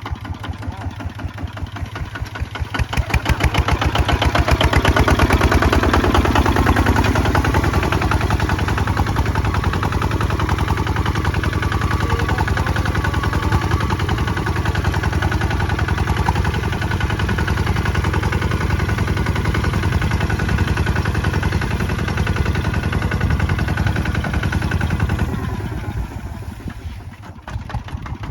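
Kubota ZT155 two-wheel tractor's single-cylinder diesel engine running with a fast, even chug. It grows louder a few seconds in, holds steady, and drops back near the end.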